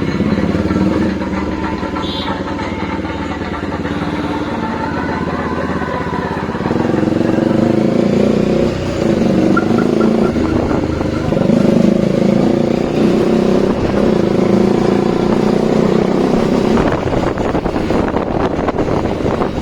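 Bajaj Dominar 400's single-cylinder engine running through a new aftermarket exhaust while the bike is ridden. It gets louder about a third of the way in as the throttle opens, and turns rougher and noisier near the end.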